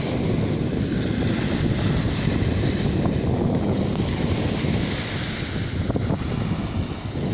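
Sea surf washing on the shore, a steady rushing with wind buffeting the microphone.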